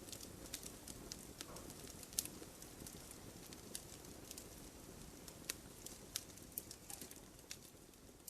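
Firewood crackling in an open fire: sharp, irregular pops and snaps over a faint, steady low rustle of flame. The loudest snap comes about two seconds in.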